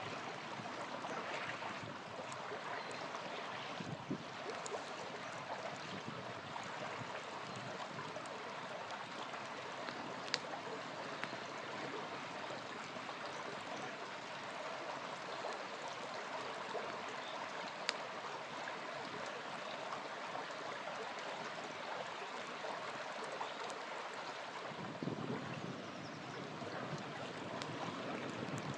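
Small river flowing steadily, with a few sharp pops from a campfire crackling close by.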